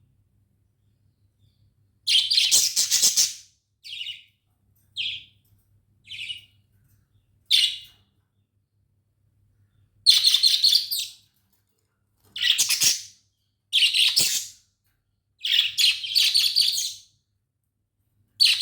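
Budgerigars chirping and chattering in about ten separate bursts with short silences between, the longer bursts lasting a second or more.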